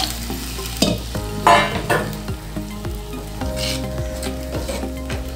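A wooden spoon stirring watery tamarind curry in a clay pot, with two louder scraping strokes about a second and a half and nearly four seconds in.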